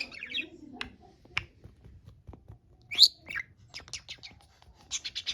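Budgerigar chirping and squawking in short, sharp calls with gaps between them, the loudest about three seconds in, then a quick run of chirps near the end.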